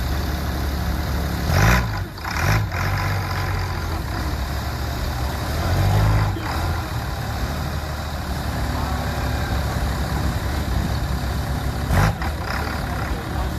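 A diesel engine idling steadily, with a few short revs about two seconds in, around six seconds in and once near the end.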